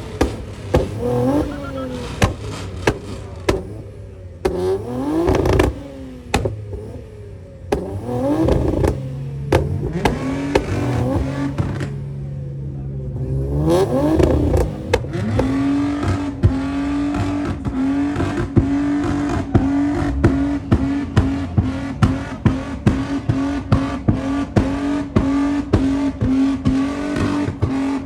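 A car engine is revved in a series of blips, each rising and falling. About halfway through it is held at a steady high rpm, crackling with a rapid, even run of pops and bangs, as when a two-step launch limiter is engaged.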